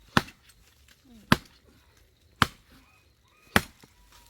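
A foice (long-handled billhook) chopping into a dry log: four sharp blows about a second apart.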